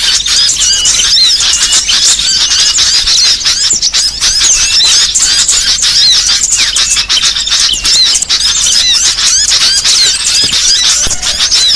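A dense, noisy chorus of many small songbirds chirping and twittering at once, with rapid overlapping high calls: a bird-luring (pikat) recording meant to draw small birds in.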